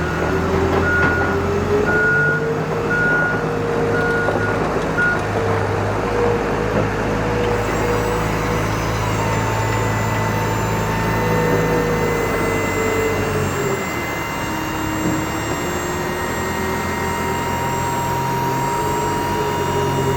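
Ford F-550 Super Duty dump truck's engine running, with a reversing beeper beeping steadily through the first five seconds. Engine speed rises about two seconds in and drops back later on, and a steady high whine comes in around the middle.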